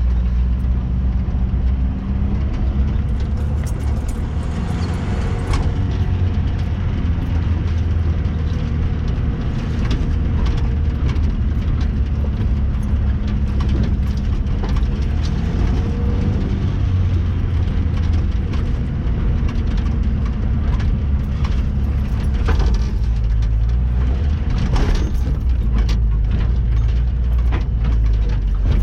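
Off-road vehicle engine running steadily at a low, even pitch while driving over rough, roadless ground, with scattered knocks and rattles from the bumpy track.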